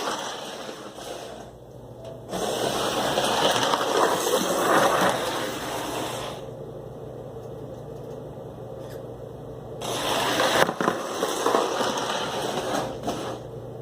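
American Flyer S-gauge model of a Milwaukee Road EP5 electric locomotive running on its track: a continuous whir and rattle of motor and wheels that grows louder twice, as the train comes near, and falls away in between.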